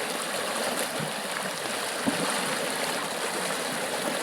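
River water flowing past, a steady rushing of current, with a couple of faint low knocks about one and two seconds in.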